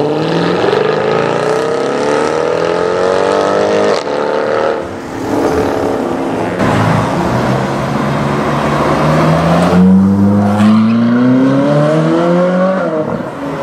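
Two V8 engines accelerating hard, each rising steadily in pitch. First comes a Mercedes C63 AMG coupé's 6.2-litre V8. After a break about halfway through, a Ferrari 458 Speciale A's 4.5-litre flat-plane V8 climbs until it cuts off near the end.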